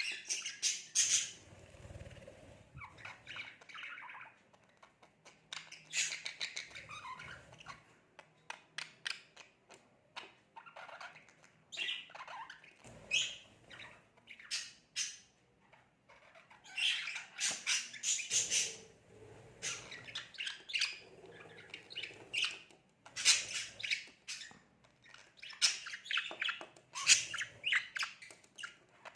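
Budgerigar chattering and squawking at its own reflection in a mirror: irregular runs of short, high chirps and squawks broken by brief pauses.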